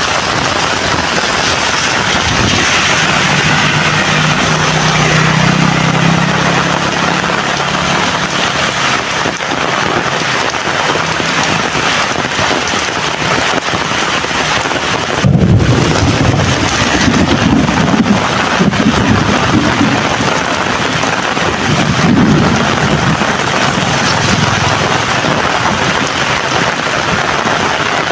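Heavy rain pouring steadily, with low rolling rumbles of thunder through the second half. A low hum rises and fades a few seconds in.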